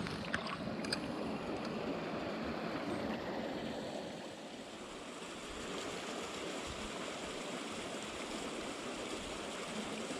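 Small mountain stream flowing steadily over rocks, with a few faint clicks in the first second.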